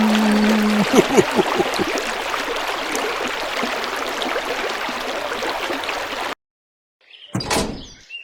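Steady rushing noise with a few faint clicks, cutting off abruptly about six seconds in; a single short burst of sound follows near the end.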